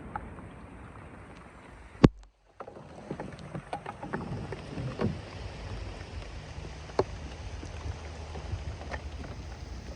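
Small wooden boat on a river: irregular knocks against the hull and splashing water over a steady low rumble. A sharp click about two seconds in, then the sound cuts out for half a second.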